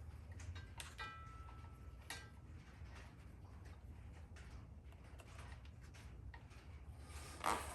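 Scattered light clicks and taps of parts being handled, with one brief metallic ping about a second in, over a steady low hum. A louder crinkling rustle starts near the end.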